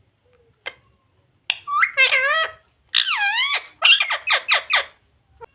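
Pet ringneck parrot calling: squeaky, wavering calls starting about one and a half seconds in, then a quick run of about five short, sharp notes near four seconds in.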